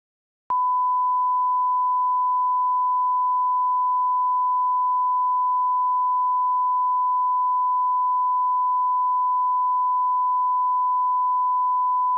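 Steady 1 kHz sine reference tone at −18 dB for audio line-up, a single unchanging pitch that comes in with a small click about half a second in.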